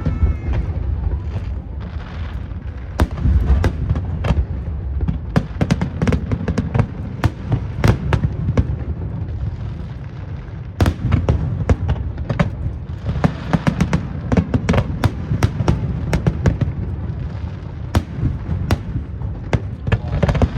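Aerial fireworks display: a rapid, uneven succession of bangs and crackling bursts over a continuous low rumble.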